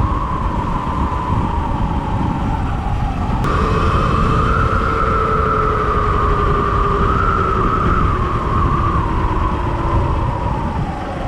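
Sur Ron X electric bike under way: its motor and chain drive whine steadily, jumping up in pitch about three and a half seconds in as it accelerates and falling away near the end as it slows, over low wind rumble on the microphone.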